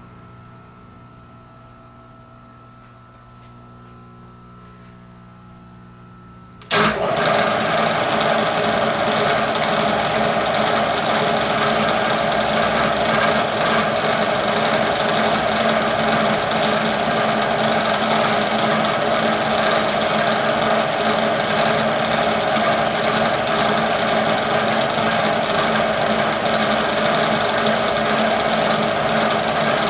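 A low steady hum, then about seven seconds in a machine motor switches on abruptly and runs steadily and loudly.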